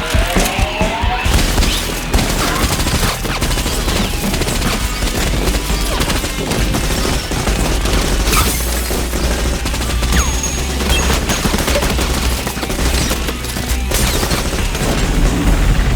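Sustained, rapid gunfire from a film gunfight, many shots overlapping with heavier booming hits among them.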